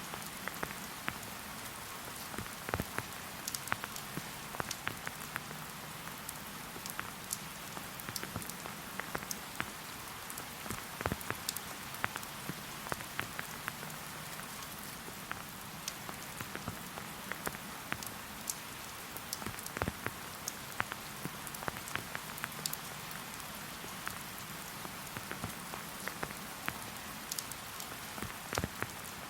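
Steady rain falling in a forest, a continuous hiss with many separate drops ticking close by, some louder than others.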